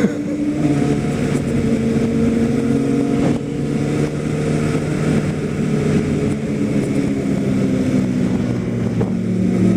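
Kawasaki ZX-10R sport bike's inline-four engine running at a fairly steady, low speed while riding, with a short drop in level about three seconds in.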